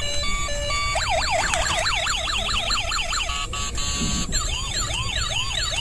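Battery-operated toy police car's electronic sound chip: a short beeping tune, then a fast warbling siren of about five sweeps a second. A brief steady buzz follows about three and a half seconds in, then a slower rising-and-falling siren, with a low steady hum underneath.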